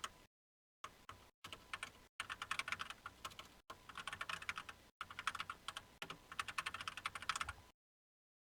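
Typing on a computer keyboard: several quick runs of keystrokes with brief pauses between, stopping shortly before the end.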